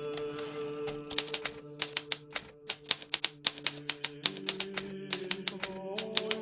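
Hermes Baby portable typewriter keys striking in quick, irregular runs, starting after a short pause about a second in, over soft background music with held chords that change twice.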